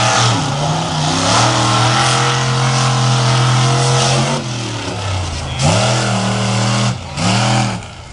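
Monster truck engine revving hard: held at high revs for a few seconds, it drops off about halfway through, then gives two short rising-and-falling blips of the throttle near the end.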